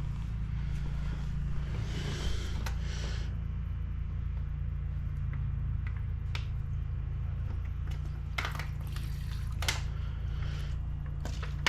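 Gasoline being poured from a homemade squirt bottle (a jar with holes in its lid) during the first few seconds, then a couple of sharp clicks of handling, over a steady low hum.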